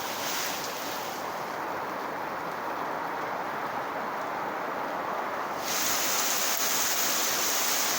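Heavy rain pouring down, a steady hiss that suddenly grows louder and brighter about two-thirds of the way in.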